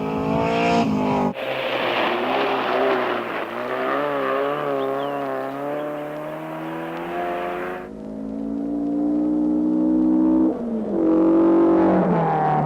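Rally car engines revving hard across several spliced clips: the engine note climbs, cuts abruptly to a lower wavering note that rises slowly, then climbs again and falls away near the end.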